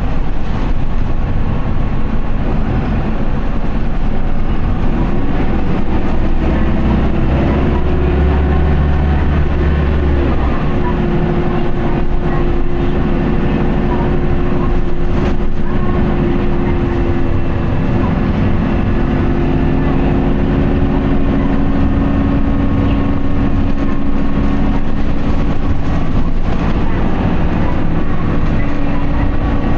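Isuzu Erga QDG-LV290N1 city bus's four-cylinder turbo diesel heard from inside while under way, its note rising and shifting with engine speed. A deep low hum holds from about four seconds in and drops away about ten seconds in.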